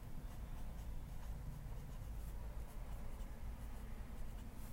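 Faint scratching of a pen drawing a diagram, over a steady low hum.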